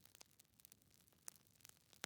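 Faint crackling of a wood fire: small irregular pops and snaps over a soft hiss.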